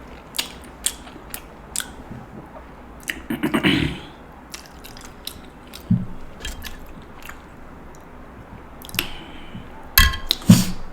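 Close-miked mouth sounds of eating king crab meat: biting and chewing with scattered wet clicks and smacks, and a louder burst of sound near the end.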